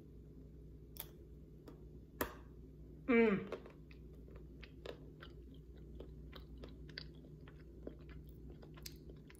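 A person chewing a frozen dark chocolate and peanut butter cup close to the microphone: a sharp click about two seconds in, a short hummed "mm" about three seconds in, then soft, irregular clicky chewing.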